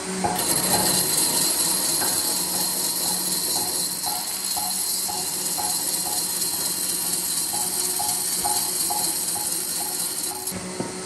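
A steady high hiss starts just after the beginning and cuts off suddenly near the end, over faint short notes repeating at an even pace.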